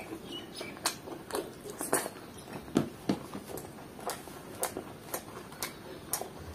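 Close-up mouth sounds of a person chewing rice and butter chicken: irregular wet smacks and clicks, about two a second.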